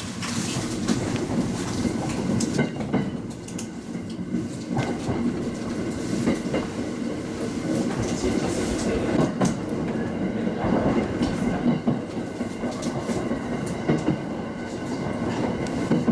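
Local train running along the line, heard from on board: a steady rumble of steel wheels on the rails, broken by irregular clicks and knocks from the track.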